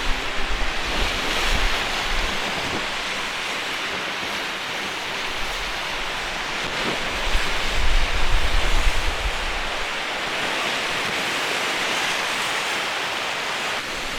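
Storm surf crashing in a strong mistral wind, with gusts buffeting the microphone, hardest right at the start and again around eight to nine seconds in.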